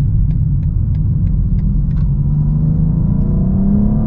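Cabin sound of a 2023 BMW X4 M Competition: its twin-turbo inline-six runs with a steady low rumble while the turn-signal indicator ticks about three times a second. The ticking stops about two seconds in, and then the engine note rises as the SUV accelerates.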